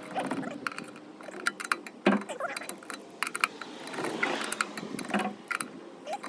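Scattered sharp metallic clicks and clinks of hand tools and parts being handled during brake work.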